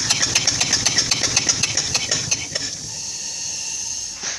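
Homemade double-acting steam engine with a Harley-Davidson fork-tube cylinder, running with rapid, even exhaust puffs and no exhaust system fitted. A little over halfway through the puffs slow and stop, leaving a steady hiss, with a click near the end.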